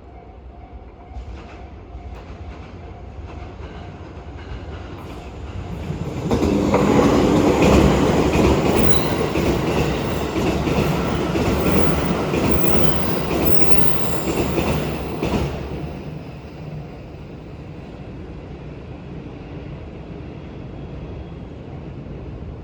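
JR Kyushu electric commuter train passing over the level crossing. Its noise builds slowly, jumps sharply about six seconds in, stays loud for about nine seconds, and drops away about fifteen seconds in.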